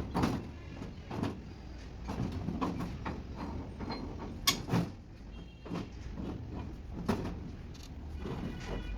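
Irregular knocks and clanks, a handful of sharp impacts standing out over quieter clatter and a low steady background hum.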